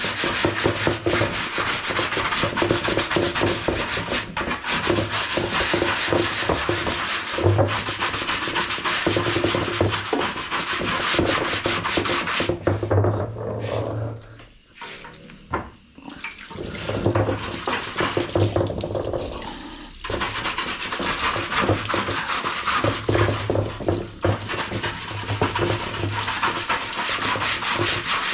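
A brush scrubbing hard plastic washing-machine parts in rapid back-and-forth strokes, with a short pause about halfway through.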